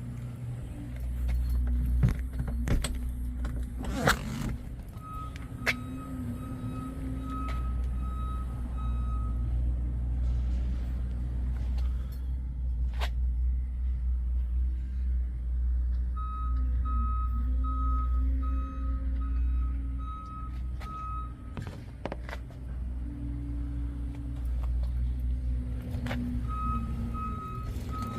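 A vehicle engine running steadily with a deep rumble. Over it, an evenly spaced high beep sounds in three spells, like a reversing alarm.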